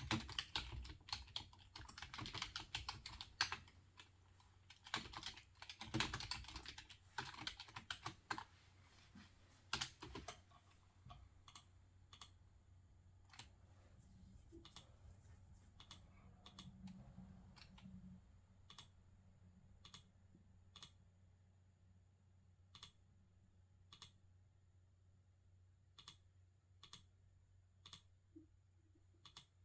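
Typing on a computer keyboard: a quick run of keystrokes for about the first ten seconds, then sparse single clicks roughly one a second over a faint low hum.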